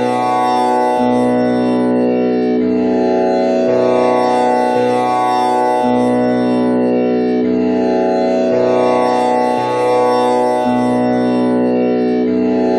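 Tanpura drone in the key of B, with one string tuned to komal Ni (flat seventh): its four strings plucked one after another in a slow repeating cycle, each new pluck every second or so over an unbroken ringing drone.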